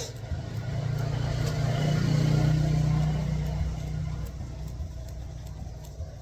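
A motor vehicle passing by: its engine hum grows louder, peaks midway, then fades away.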